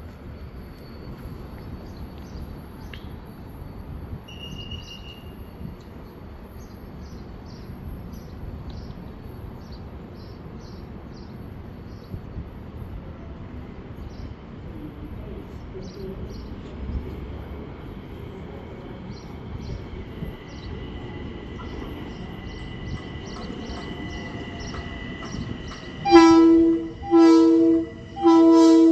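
Long Island Rail Road train horn sounding near the end: two long blasts about a second apart, and a third starting just before the end, over quiet outdoor background with faint repeated chirps. A faint steady whine comes in about two-thirds of the way through as the train nears.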